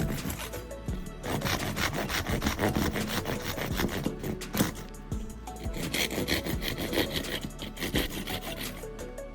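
A handsaw cutting wood in a steady run of back-and-forth strokes, over background music.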